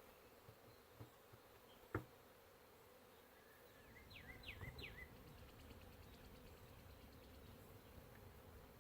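A honeybee colony humming faintly and steadily. A sharp click comes about two seconds in, and a quick run of three high chirps a couple of seconds later.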